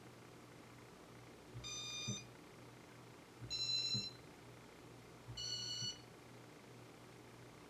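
Piezo beeper on a 1986 Casablanca Four Seasons ceiling fan's first-generation (RMM1) IntelliTouch control board beeping three times, about two seconds apart, each beep half a second long and differently pitched, as the fan steps through its demo mode; the beeper's shrill, raspy tone is normal for RMM1 fans. A dull click comes at the start and end of each beep, over a low steady hum.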